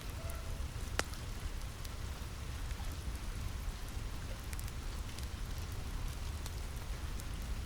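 Steady rain on a roof, with a low rumble underneath and scattered sharp crackles from a fire, one louder crack about a second in.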